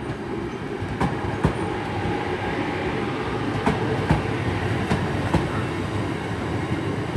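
Passenger train running through the station: a steady rumble of wheels on rails, with sharp clicks as the wheels cross rail joints at irregular intervals.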